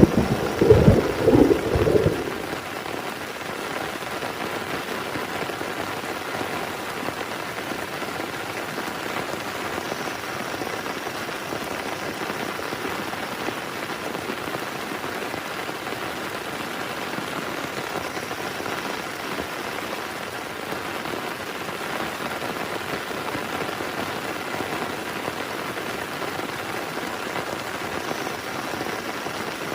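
Heavy rain falling steadily during a thunderstorm. A rumble of thunder dies away about two seconds in, leaving the even hiss of the rain.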